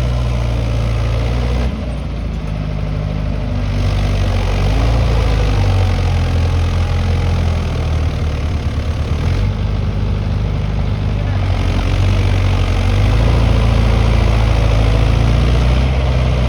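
Mahindra Yuvo Tech tractor's diesel engine running steadily, its pitch and loudness shifting several times as it works in mud.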